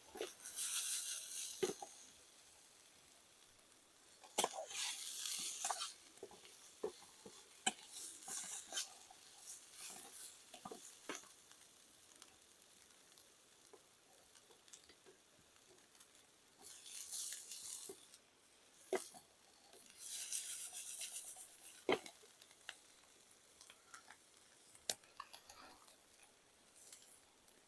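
Onions frying in a pan over a small wood fire: the sizzle swells in short spells every few seconds as the pan is stirred, with sharp clicks and taps in between.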